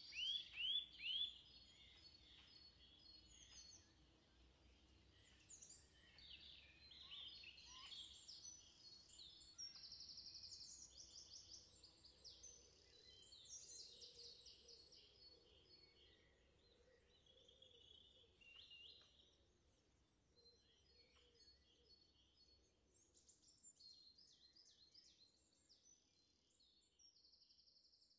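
Several songbirds chirping and trilling faintly in the background, with a few louder rising chirps at the start.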